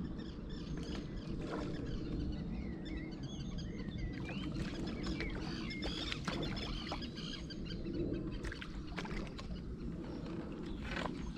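Small birds singing over a steady low rumble, with a few sharp clicks about six, eight and eleven seconds in.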